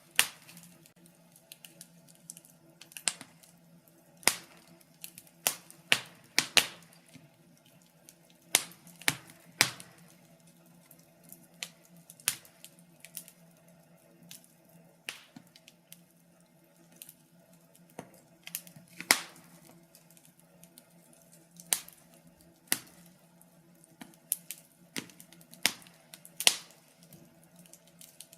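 Wood fire burning in a fireplace, crackling and snapping at irregular intervals, with several louder sharp pops, over a low steady hum.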